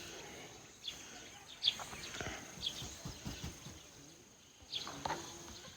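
Small birds chirping in short, high, falling notes that come in small clusters, over faint outdoor background noise with a few light knocks.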